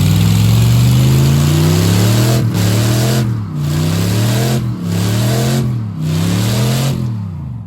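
Pickup truck doing a burnout: the engine is revved hard over and over, its pitch climbing and dropping back about once a second, over a loud hiss of spinning tyres. It dies away just before the end.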